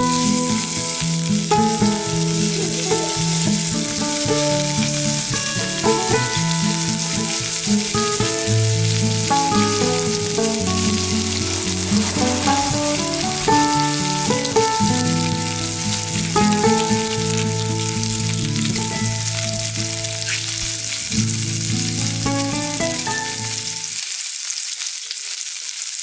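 Food frying in a pan, a steady sizzle, under background music with a melody of held notes that ends a couple of seconds before the sizzle fades out.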